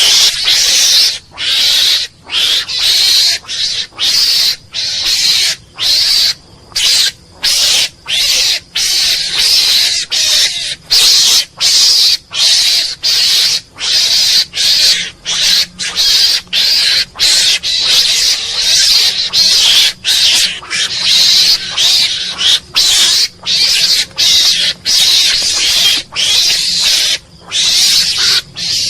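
Mongoose calling over and over in harsh, hissy calls, each under a second long, about one and a half a second with short breaks between them.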